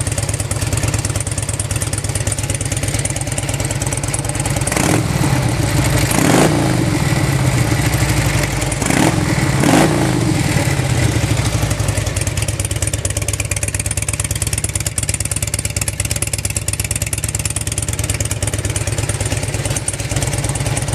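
2003 Harley-Davidson Road King's V-twin idling through newly fitted B&E Max 2 slip-on mufflers. The throttle is blipped twice, around five and nine seconds in, the revs rising and falling back to idle each time.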